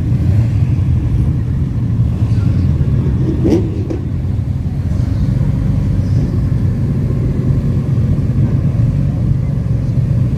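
TVR sports car engine running with a loud exhaust: a deep, steady rumble, with a brief change in pitch about three and a half seconds in.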